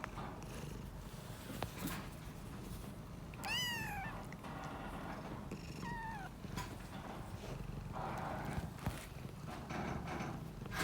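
Young kittens mewing: one high-pitched mew about three and a half seconds in that rises then falls, and a shorter, falling mew about six seconds in, over a low, steady purr and small rustles.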